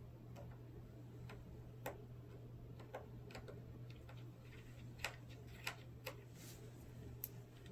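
Faint, irregular small clicks and ticks of screws being driven back in by hand while reassembling a laptop's display, about a dozen over several seconds, over a steady low hum.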